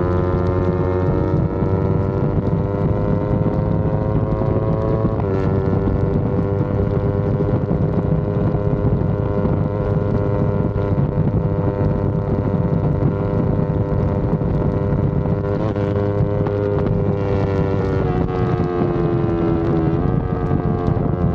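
Yamaha R25 parallel-twin engine running under way, with wind rushing over the microphone. The engine note holds steady, shifts abruptly about five seconds in, sinks near the end and then picks up again.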